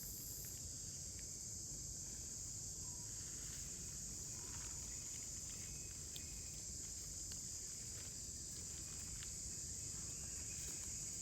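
Steady high-pitched chorus of insects, crickets or cicadas, with a few faint ticks.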